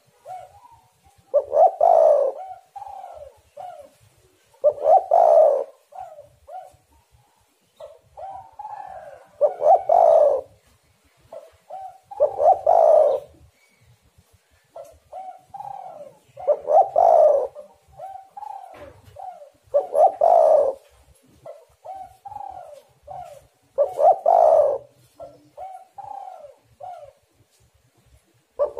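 Spotted dove (tekukur) singing its cooing song over and over. About seven phrases come a few seconds apart, each a loud coo followed by three or four shorter, softer coos.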